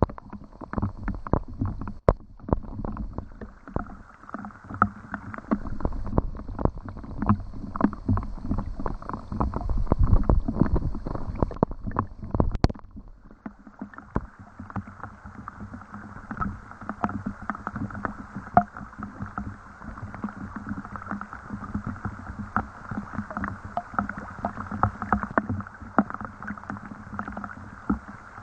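Rain pattering: a dense, continuous run of small drop impacts. A low rumble under it in the first half stops abruptly about halfway through, leaving a lighter, higher patter.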